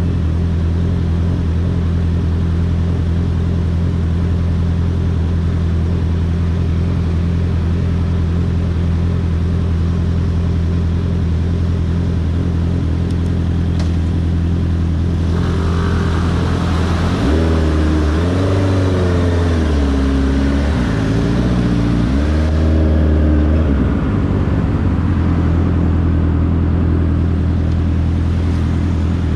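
Honda CBR650R inline-four motorcycle engine running at a steady pitch. A little past halfway, its pitch rises and falls several times as it is revved and shifted, with a rushing noise over it, then it settles back to a steady note.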